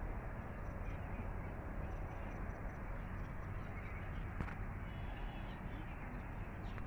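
Birds calling over a steady low outdoor rumble.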